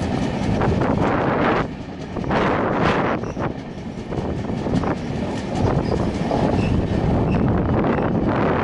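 Rajdhani Express passenger train running at speed, its wheels rumbling on the rails with irregular clicks from the track. Wind noise on the microphone.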